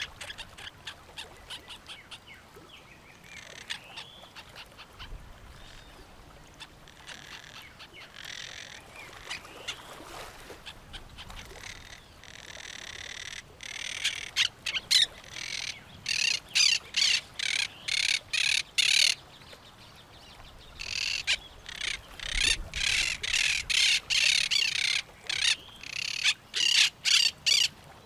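Parrots squawking, with softer bird calls first, then from about halfway two long runs of rapid, harsh calls, several a second.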